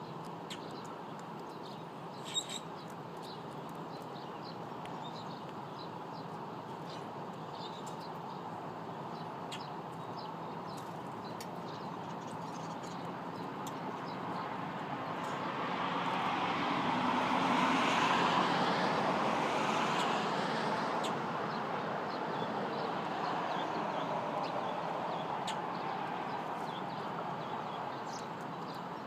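Small wild birds chirping at a feeder over a steady outdoor background hiss. A vehicle passes by midway, its noise swelling and then fading.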